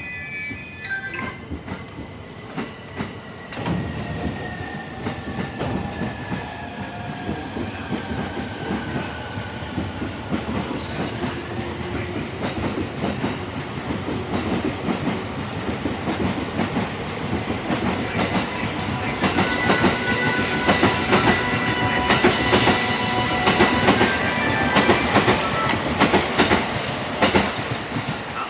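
E231-series electric commuter train running into the platform and braking. Its motor whine falls in pitch over the first ten seconds over the rumble and clatter of the wheels. The sound grows louder with squealing tones and a hiss near the end as the train draws to a stop.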